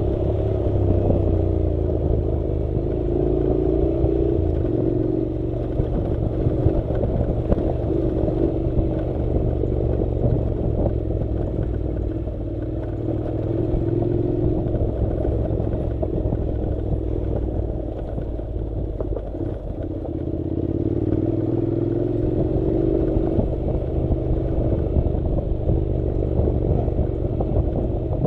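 Honda NC700's parallel-twin engine running as the motorcycle rides off-road, its pitch slowly rising and falling with the throttle, over a low rumble with scattered clatter from the rough track.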